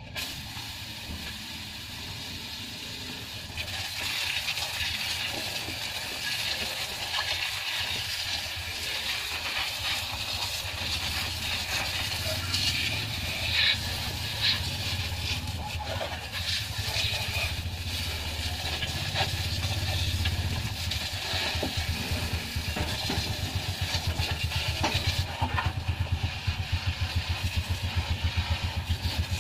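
Water spraying from a hose onto a car's engine bay, a steady hiss with spattering crackles, over a low motor hum that takes on a fast, even pulsing beat in the last third.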